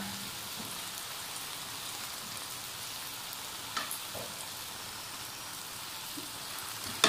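Okra, onions and green chillies frying in a pan: a steady sizzle, with two brief clicks about four seconds in.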